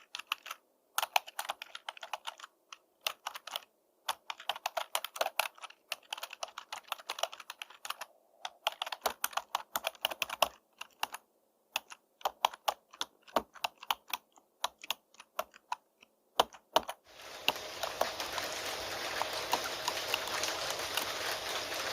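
Computer keyboard typing in irregular bursts of key clicks with short pauses. About three-quarters of the way through, steady rain noise starts and covers it, with a few key clicks still heard over the rain.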